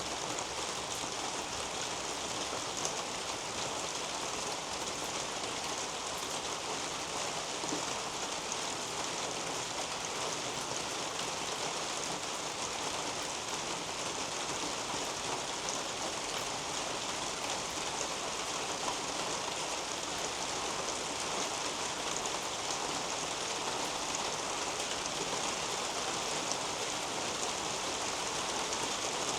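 Steady rain falling on the leaves of a potato patch and the soil beneath, an even hiss of many drops with a few louder single drops.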